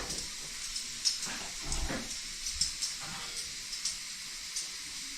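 Steady faint hiss with scattered light clicks and a few soft knocks.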